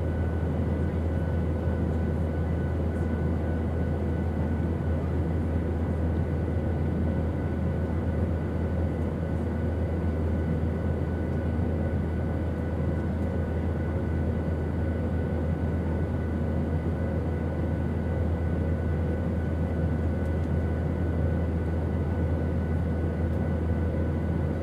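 Airplane engine drone, steady and unchanging: a deep, loud low hum under a rushing noise, with a few faint steady whining tones on top.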